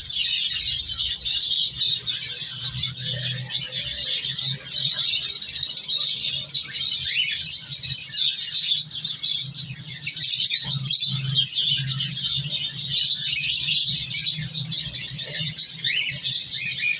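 Many cockatiels chirping and chattering at once, with no let-up, over a low steady hum.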